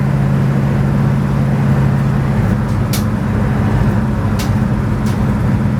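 A 427 big-block V8 in a Chevelle wagon cruising steadily in fifth gear at about 1,900 rpm at highway speed, heard from inside the cabin as a steady low drone over tyre and road noise. A few light clicks come through from about halfway in.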